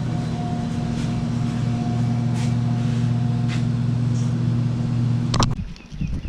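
Steady, low-pitched machine hum that cuts off abruptly with a click about five and a half seconds in.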